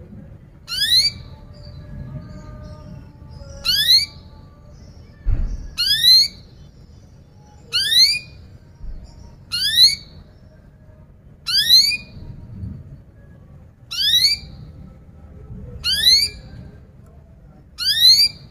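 Domestic canary repeating a short, sharp rising 'cuit' call about every two seconds, each one a quick upward-sweeping whistle.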